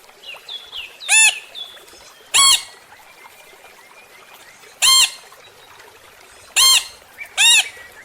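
A parrot squawking: five loud, harsh calls spaced irregularly, the last two close together, with faint chirps from smaller birds in between.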